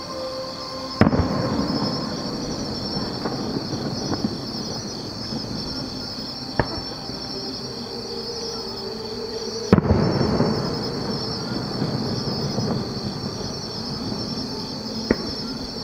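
Distant aerial fireworks shells bursting: two loud booms, about a second in and near ten seconds, each followed by a rumbling echo that dies away over a second or two, with a few fainter cracks in between. Insects chirp steadily and high in the background.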